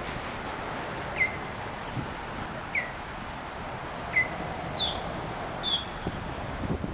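A bird calling outdoors: short, sharp calls, each dropping quickly in pitch, repeated about every second and a half, two of them higher near the middle, over a steady background hum.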